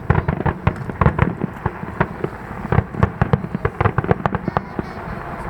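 Fireworks finale: a rapid, dense barrage of shell bursts and crackling reports, many per second, with deep booms underneath.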